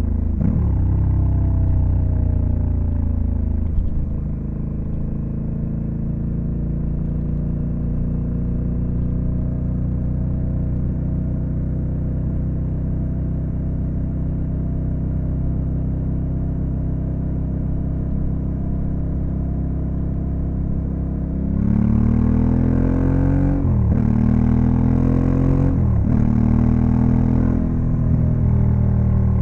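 Honda Africa Twin CRF1100L's parallel-twin engine heard from the bike, cruising at steady revs after a gear change about four seconds in. Near the end it accelerates hard, the revs climbing and dropping sharply at three quick upshifts.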